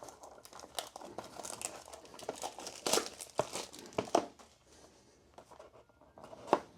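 Plastic wrapping on a box of trading cards being torn open and crinkled, in irregular crackles with a lull near the end.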